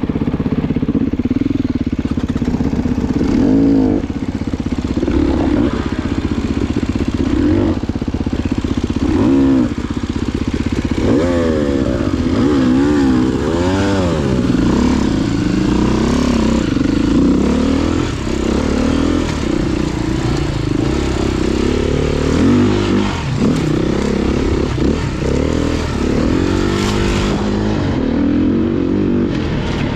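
Dirt bike engine revving up and down over and over, the throttle worked hard and the pitch rising and falling in quick sweeps, as an off-road motorcycle climbs through a rough, technical section.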